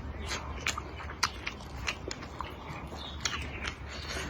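Close-up eating sounds: a person chewing and biting food, with many short, irregular clicks.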